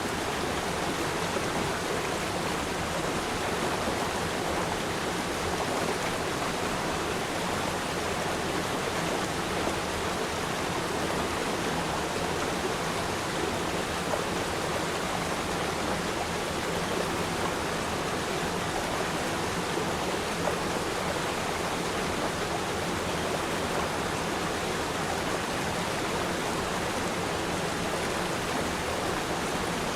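River stream flowing: a steady, even rush of water.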